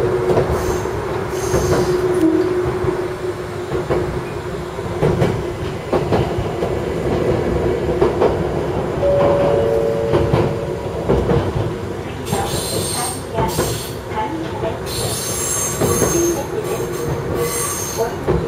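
Electric train running along the line, heard from on board: steady running noise with wheels knocking over rail joints. In the latter part, high-pitched wheel squeal comes and goes in bursts.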